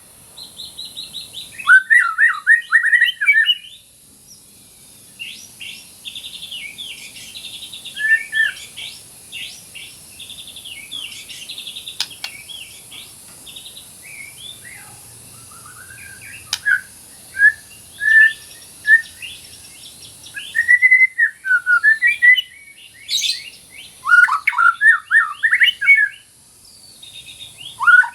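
White-rumped shama singing: varied phrases of clear whistles and fast rattling trills. The loudest bursts come soon after the start and again a little over halfway through, with softer twittering between.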